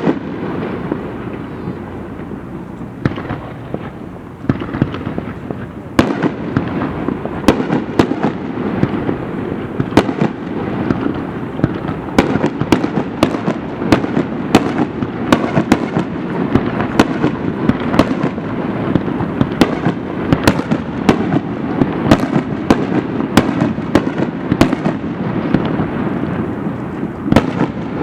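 Aerial fireworks bursting: a loud bang at the start, scattered reports over a steady rumble, then from about six seconds in a dense barrage of sharp bangs and crackles in quick succession.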